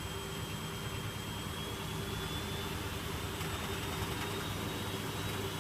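Electrolux W455H commercial washing machine running, a steady motor hum under a thin high whine that slowly rises in pitch as the drum speeds up, typical of the machine going into a spin.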